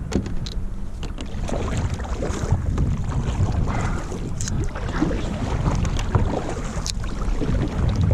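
Wind buffeting the microphone in a steady low rumble, with water splashing and lapping against a kayak in short irregular sounds.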